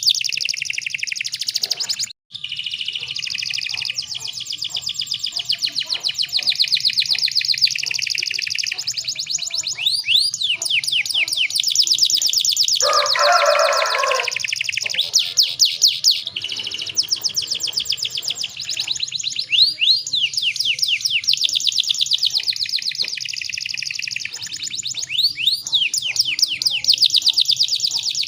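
Domestic canary singing: long, fast rolling trills of rapidly repeated high notes, broken by a brief drop-out about two seconds in and a short, harsher, lower burst about halfway through.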